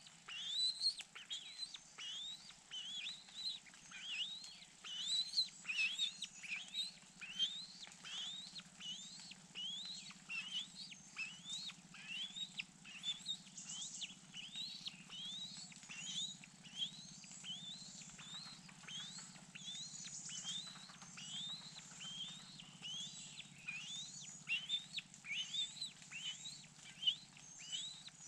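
A bird calling in a long, regular series of short rising chirps, about two a second, over a faint steady low hum.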